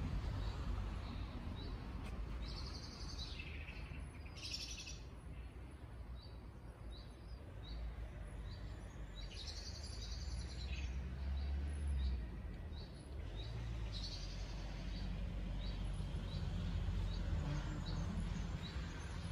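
Small songbirds in trees. One bird repeats short high chirps about once a second, and longer song phrases come in several times. A low outdoor rumble runs underneath.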